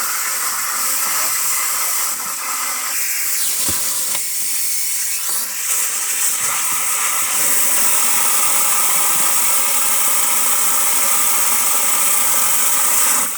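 Water spraying out under pressure from a leaking water service connection: a loud, steady hiss that grows stronger about six seconds in.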